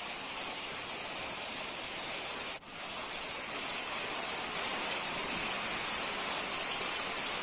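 Heavy rain with hail pouring down: a steady, dense hiss, broken by a momentary dropout about two and a half seconds in.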